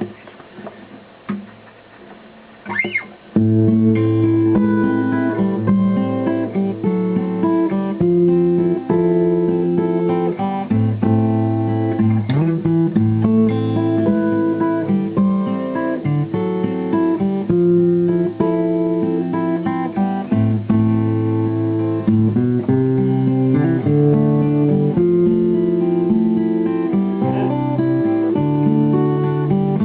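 A 1980 Tokai Cat's Eyes CE400 steel-string acoustic guitar being played, picking out single notes over bass notes. The playing starts about three seconds in, after a few small handling clicks.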